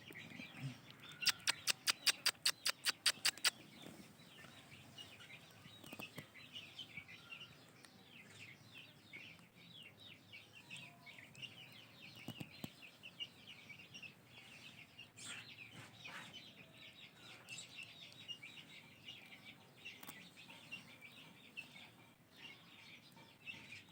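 Ringneck parrot chicks giving many short, high begging chirps while being hand-fed. Just after the start comes a quick run of about a dozen sharp clicks, about five a second, which are the loudest sound here.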